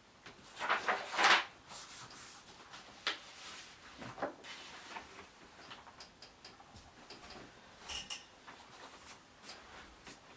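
Handling noise: a burst of rustling and knocks about half a second to a second and a half in, then scattered light clicks and taps.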